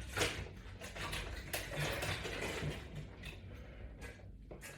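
Resistance band being unhooked and refastened to a latch bar attachment: scattered handling noise with a few light clicks from the band's clip and hardware.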